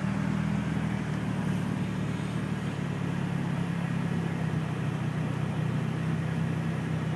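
A 1991 Nissan 240SX's four-cylinder engine running steadily at low revs, around 1,000 rpm, heard from inside the cabin as an even low hum with road noise. It sounds good and quiet.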